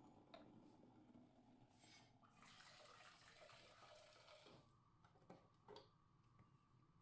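Faint running water for about two seconds, followed by a few light clicks.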